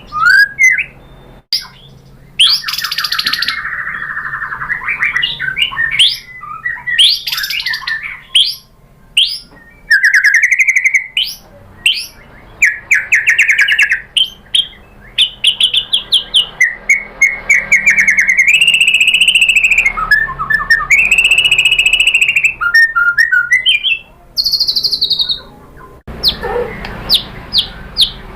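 White-rumped shama (murai batu) singing a long, varied song: loud whistled phrases, fast trills and rising and falling glides in quick succession, ending in a steady run of short repeated notes, about three a second.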